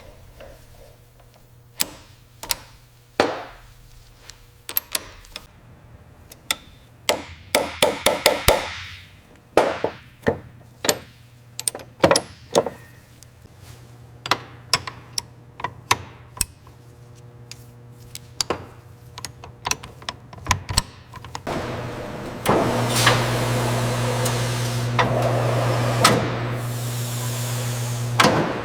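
Hand-tool work: scattered metal clicks and knocks at an uneven pace. Then, about two-thirds of the way in, a motor-driven tool runs with a steady hum for about five seconds and stops.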